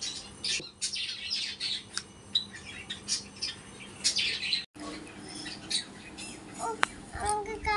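Small birds chirping and squawking in short, irregular calls, with a sudden brief break a little over halfway through. A child's voice starts near the end.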